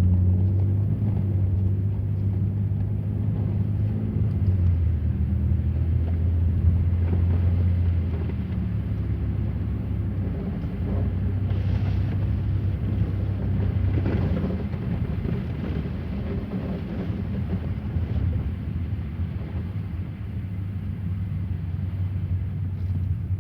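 Car driving, heard from inside the cabin: a steady low engine hum over road noise, the hum dropping a little about eight seconds in.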